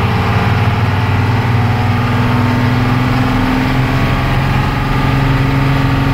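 Blue Bird school bus engine pulling steadily in second gear through an Allison AT545 automatic transmission, with the transmission's second-gear whine. The pitch steps slightly about four seconds in.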